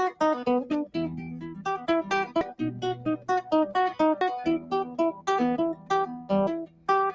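Acoustic guitar playing a quick, even run of plucked single notes, about four a second.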